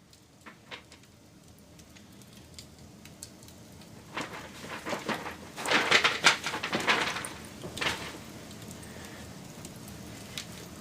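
Wood fire crackling and popping: scattered sharp snaps at first, then a dense, louder run of crackles in the middle, over a faint steady hiss.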